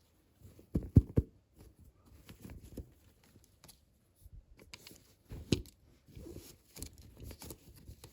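Small toys and their packaging being handled: irregular clicks, taps and light rustling. The loudest knocks come about a second in and again past five seconds.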